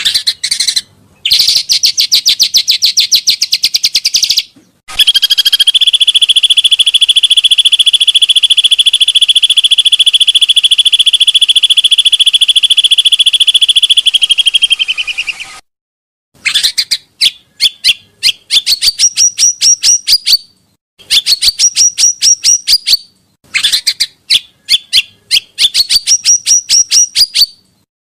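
Recorded song of the bird known in Indonesia as pancawarna, played as a lure and tutoring track. It opens with rapid trills. About five seconds in comes one long, steady, buzzing trill lasting some ten seconds. The rest is a string of short, fast trilling phrases, each a second or two long, broken by sudden total silences.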